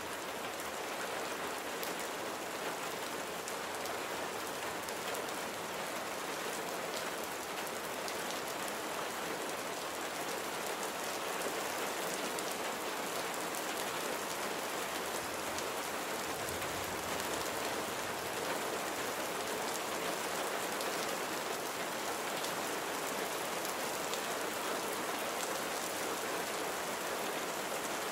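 Steady rain falling, an even hiss with many individual drops heard as fine ticks, unchanging throughout.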